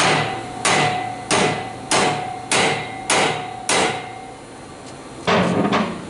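Rubber mallet striking a 2011 Mustang GT's aftermarket exhaust pipe, seven steady blows about every 0.6 s, with the pipe ringing after them, then a couple of quicker hits near the end. The blows are knocking the exhaust junction forward to clear the tailpipe from a hose.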